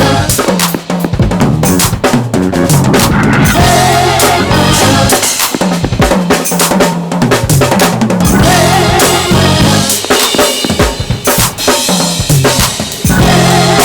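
Live gospel band groove with the drum kit loudest: quick kick, snare and rimshot strokes over sustained low bass notes, and a wavering keyboard-like tone that comes and goes every few seconds.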